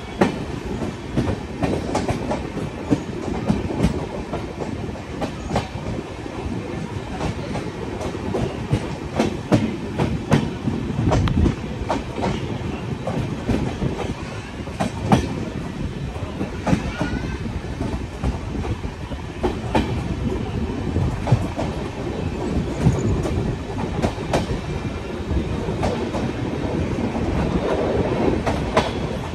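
Indian Railways passenger coach running on track, heard from its open window: a steady rumble of wheels on rail, broken by frequent sharp clicks as the wheels cross rail joints.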